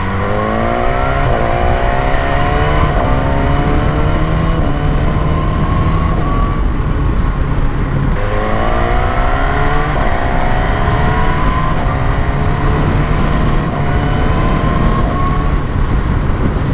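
BMW S1000R's inline-four engine accelerating hard up through the gears, its pitch climbing and dropping at each upshift. About eight seconds in it falls away, then pulls through several more upshifts, with wind rushing underneath.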